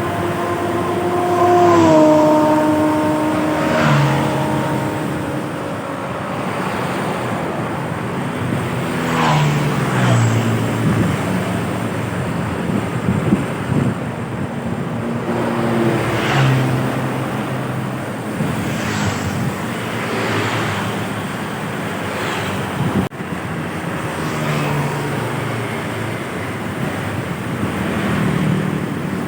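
Heavy trucks and buses passing on a road one after another, their diesel engines running and their tyres whooshing by every few seconds.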